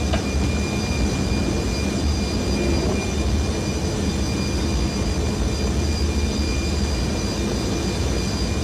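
Airbus A320 flight deck noise during the climb: a steady rushing rumble of airflow and engines, with faint steady high whines from the cockpit equipment and a single small click just as it begins.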